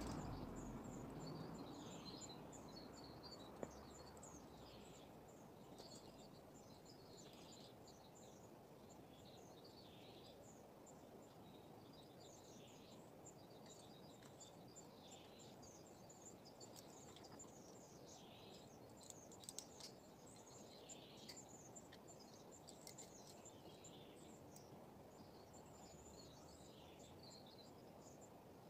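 Faint outdoor quiet: small birds calling in short chirps repeated every second or two, over a low steady hiss.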